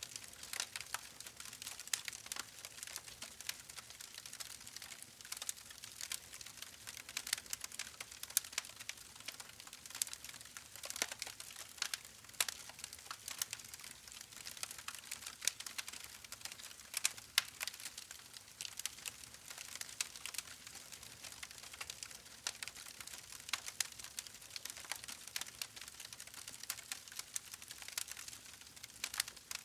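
Wood fire burning in a fireplace, crackling steadily with many small irregular pops and snaps over a soft hiss.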